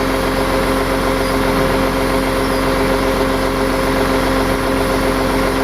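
Tow truck engine running at a steady speed, a constant hum with no change in pitch.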